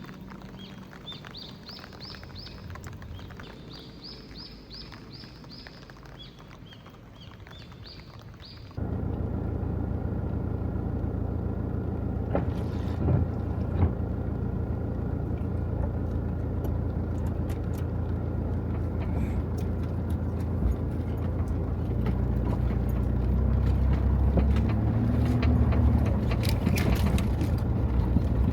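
Birds chirping in short repeated calls over a quiet background; about a third of the way in the sound cuts to a vehicle engine running with a steady low hum and occasional clicks.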